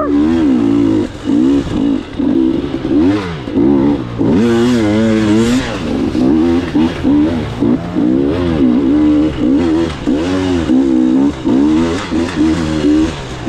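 Dirt bike engine revving up and down in short bursts of throttle, over and over, with the pitch rising and falling about once a second.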